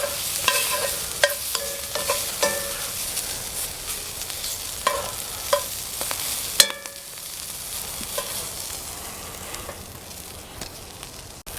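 Halved Brussels sprouts sizzling in olive oil in a hot cast iron skillet, a steady hiss broken by scattered sharp pops and clicks. The sharpest pop comes about two-thirds of the way through, and the sizzle is quieter after it.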